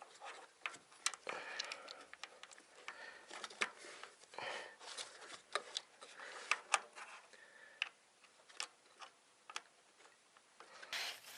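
Irregular clicks, taps and light knocks of hand tools and small metal parts being worked on an engine, with a few short scrapes in between.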